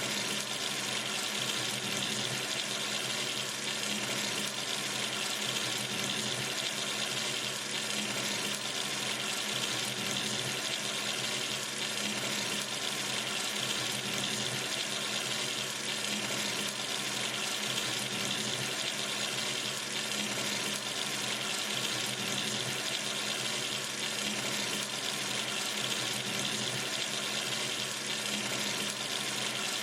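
Sink tap running steadily, water streaming into the basin in an even hiss with no change.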